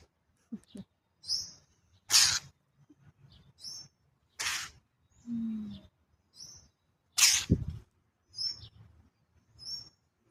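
Small birds chirping repeatedly in short, high chirps that hook upward, between short harsh, hiss-like bursts that come every two to three seconds.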